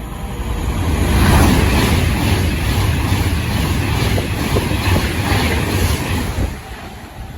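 Class 390 Pendolino electric train passing at speed: a loud rush of wheel and air noise with a deep rumble, building over the first second or so, holding steady, then dropping away near the end.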